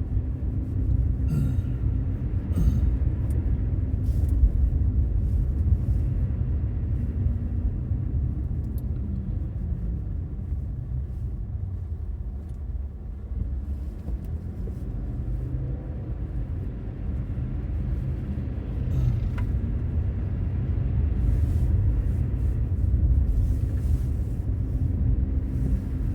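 Infiniti Q50 Red Sport 400 with its 3.0-litre twin-turbo V6, driving on a snowy road: a steady low rumble of engine and tyres that swells and eases gently. A few short clicks come near the start and again near the end.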